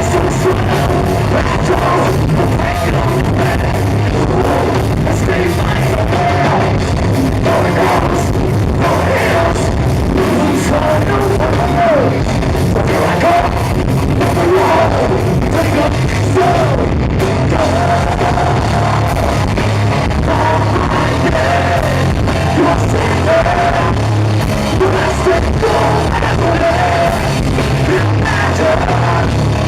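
Loud live heavy rock band playing, full band with a singer's vocals sung and partly yelled over it.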